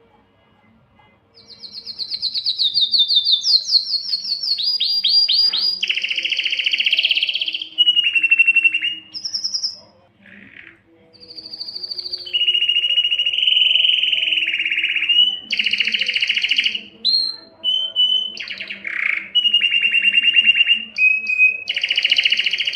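Male Spanish timbrado canary singing: after a quiet first second, a run of rapid trills and rolling phrases that switch tune every second or two, some rising in steps, others held on one pitch.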